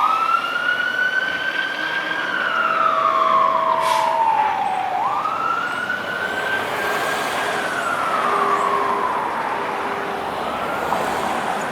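Fire engine siren wailing: the pitch jumps up, holds, then slides slowly down, about two cycles of five seconds each, growing fainter near the end.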